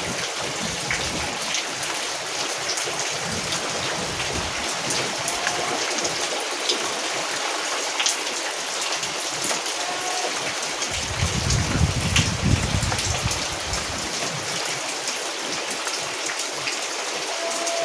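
Steady rain falling and pattering on surfaces, with scattered sharper drops and a low rumble lasting about two seconds partway through.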